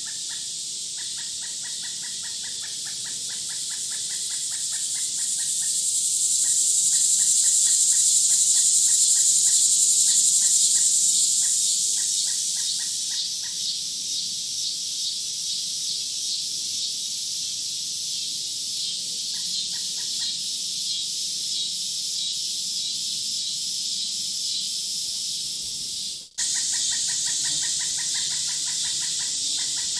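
Insects buzzing and chirping in a nature ambience: a high, shrill buzz swells up and fades away over several seconds, over rapid, even chirps. About 26 seconds in, the sound cuts out for an instant and comes back.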